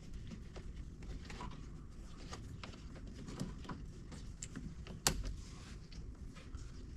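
Hands working a vehicle wiring harness and its rubber boot: faint scattered clicks and rustles, with one sharper click about five seconds in.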